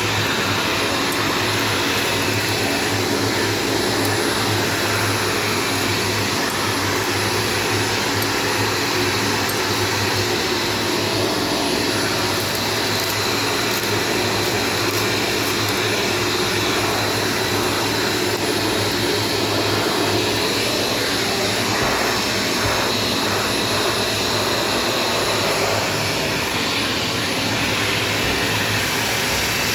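Shark Stratos vacuum cleaner running steadily at full power, a continuous motor hum and air rush.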